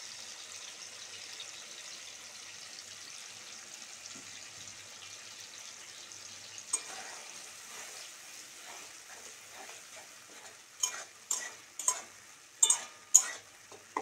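Ridge gourd frying in oil in a pan: a steady sizzle that slowly dies down under the freshly added poppy-seed paste, while a spatula stirs and scrapes the mixture. A sharp knock of the spatula against the pan comes about seven seconds in, then a quick run of five knocks near the end.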